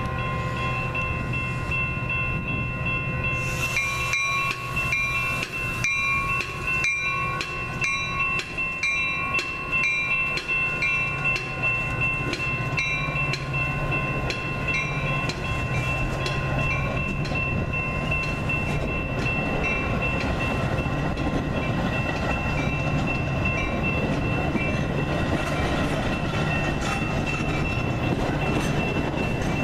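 Metra commuter train's bilevel passenger cars rolling past close by, with a steady rumble and regular clacks about every two-thirds of a second, while the grade-crossing bell rings.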